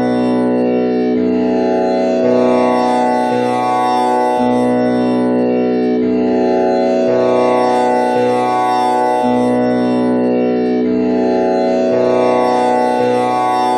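Tanpura drone in B with the first string tuned to komal Ni: a steady, buzzing stack of overtones, its strings plucked in turn in a cycle that repeats about every five seconds.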